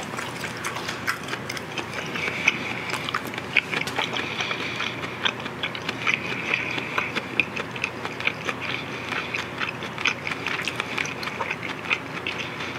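Close-miked chewing of a mouthful of grilled marinated pork ribs, with many small irregular mouth clicks.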